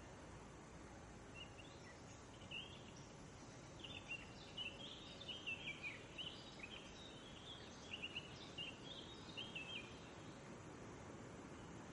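A songbird singing a long run of quick, varied chirps, starting about a second and a half in and stopping near the end, over a faint steady hiss.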